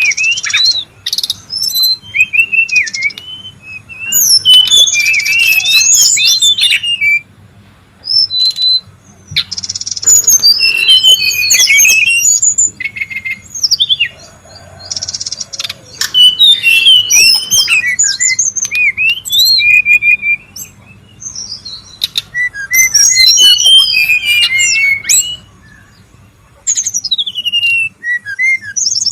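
Brown-chested jungle flycatcher singing and calling excitedly: loud bursts of quick, twisting high-pitched whistled notes mixed with harsh rapid chatter, broken by short pauses of a second or two.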